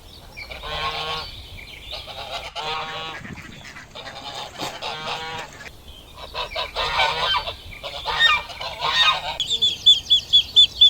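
Waterfowl honking in a series of calls that come in several bouts. Near the end, a quick run of higher, evenly spaced calls takes over.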